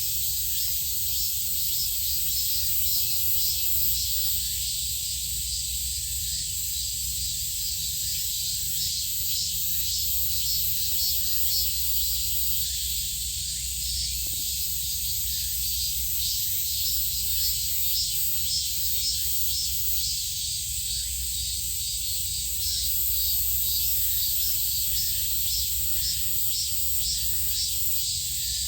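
Steady, high-pitched insect chorus with rapid fine pulsing, over a low steady rumble.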